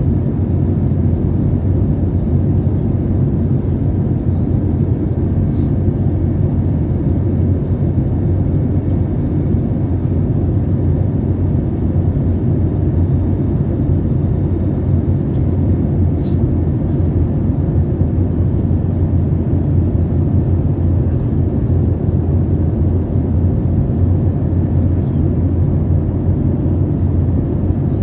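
Airliner cabin noise: a steady low rumble of the jet engines and airflow, unchanging throughout, with two faint ticks about five and sixteen seconds in.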